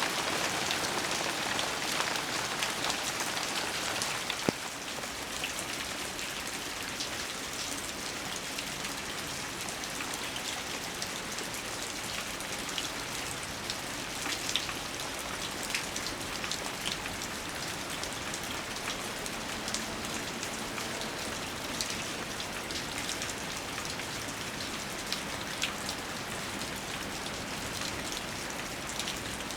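Steady rain falling, with scattered individual drops ticking through the hiss; a little louder for the first four seconds, then even.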